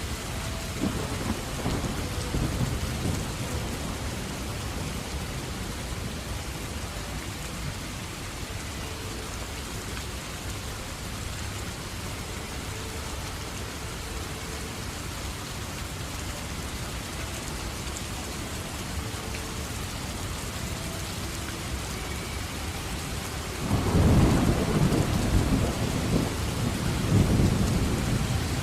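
Steady rain falling, with thunder rumbling low in the first few seconds and a louder roll of thunder starting near the end.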